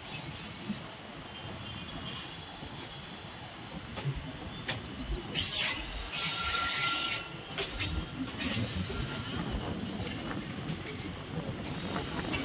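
A train running on the rails: a steady low rumble, with a louder hiss and a short high squeal of the wheels about five to seven seconds in.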